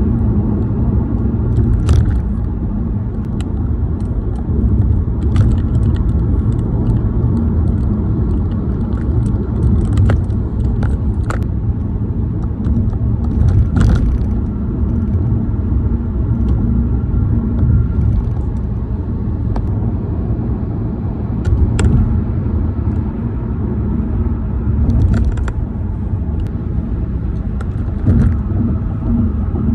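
Steady low rumble of a car's new tires rolling over pavement, heard from inside the car. It is broken now and then by sharp clicks and rattles from worn plastic in the phone mount and the car's trim.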